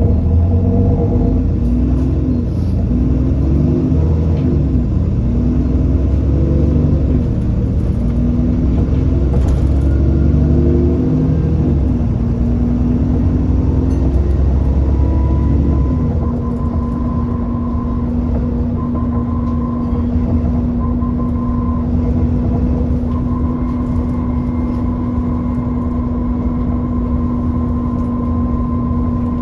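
Alexander Dennis Enviro400 Trident double-decker bus under way: the engine note rises and falls repeatedly with a heavy rumble for about the first half, then settles into a steady hum with a high whine on top.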